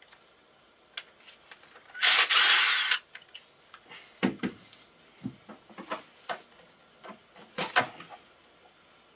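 Hand work on a motorcycle engine: a power tool runs for about a second, two seconds in. It is followed by scattered metallic clinks and knocks of tools and bolts being handled and set down.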